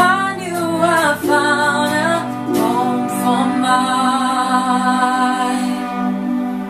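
Female voices singing in layered harmony over acoustic accompaniment, moving through two short notes and then holding one long chord.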